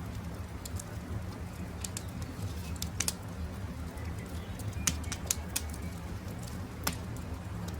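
Wood campfire crackling, with a steady low rumble and scattered sharp pops, the loudest about three, five and seven seconds in. Birds call faintly behind it.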